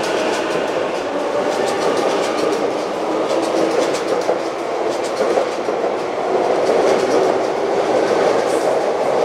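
A Sotetsu 12000 series electric commuter train runs out past the platform. Its wheels clatter over the rail joints in a quick run of clicks over a steady running noise.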